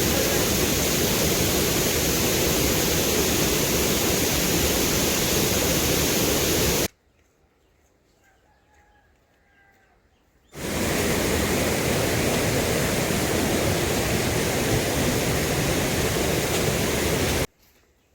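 Loud, steady rushing noise of water, such as heavy rain or a swollen stream, with no tones in it. About seven seconds in it cuts off abruptly to near silence with a few faint short whistles. It returns just as suddenly about three and a half seconds later, then cuts off again near the end.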